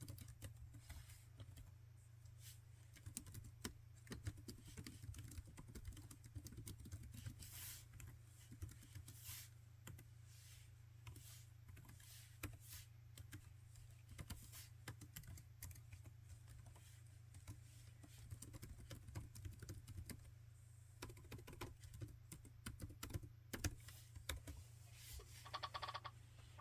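Laptop keyboard being typed on: faint, irregular runs of key clicks with a lull in the middle, over a low steady hum. A brief pitched sound comes near the end.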